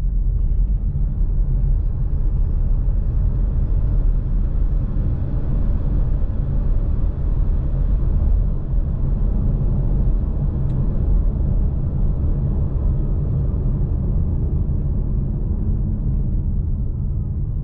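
Polestar 2 Long Range Single Motor's front electric motor whining under acceleration, its pitch rising over the first few seconds and then levelling off, over a heavy, steady road and tyre rumble. A fainter whine falls in pitch near the end as the car slows.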